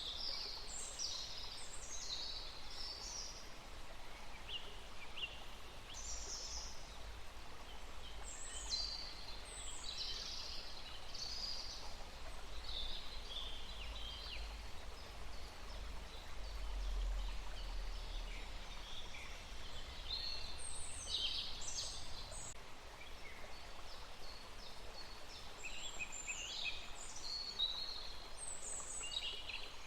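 Several songbirds chirping and singing in quick high clusters of notes, one phrase after another, over a steady outdoor hiss.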